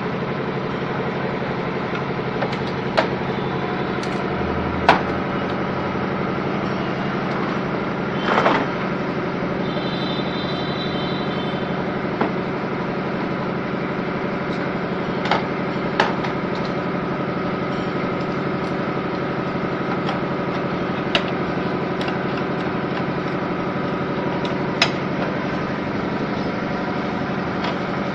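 Steady mechanical hum of a running electric motor, with a few scattered sharp clicks.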